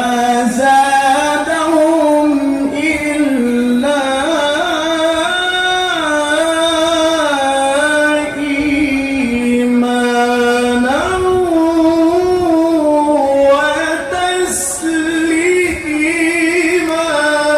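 A man's voice in melodic Quran recitation (tilawah): long, drawn-out notes ornamented with trills and wavering turns, the pitch moving up and down in steps and jumping higher about eleven seconds in.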